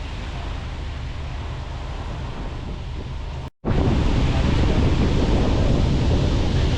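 Wind buffeting the microphone as a steady rush with a low rumble. A brief dropout comes about halfway, after which the wind rush is louder.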